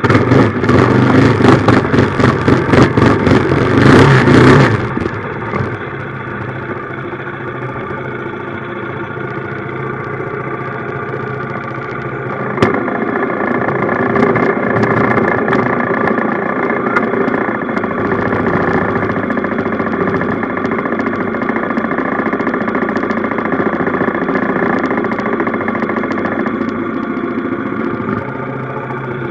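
Minibike's small engine revving loud for the first few seconds, then running steadily at low speed. It picks up slightly after a sharp click about twelve seconds in, then drops back again near the end.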